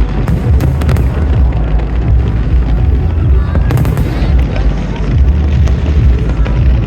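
Aerial fireworks going off in a dense barrage: continuous deep booms with several sharp cracks, mixed with show music.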